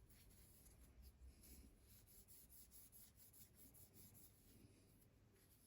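Faint rubbing of a cloth wiping down a pocketknife, a run of short soft strokes that thin out near the end.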